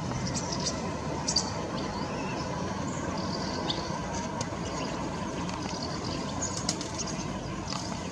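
Steady low rumble of distant road traffic, with short, high garden-bird chirps scattered over it.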